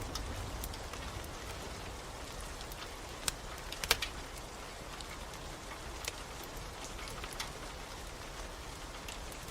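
Steady rain with a wood fire crackling: a few sharp pops over the rain's even hiss, the loudest cluster about four seconds in.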